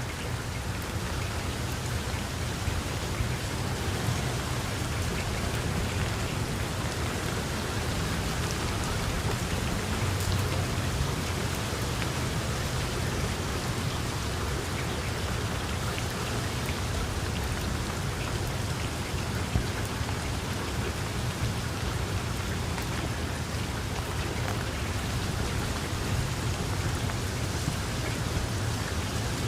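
Heavy rain falling steadily, a dense even hiss with scattered drop ticks and a low rumble underneath.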